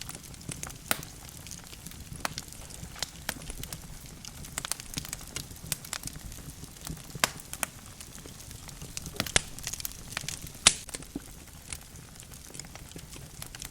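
Wood fire burning in a fireplace: logs crackling with irregular sharp pops, the loudest about ten seconds in, over a low steady rumble of the flames.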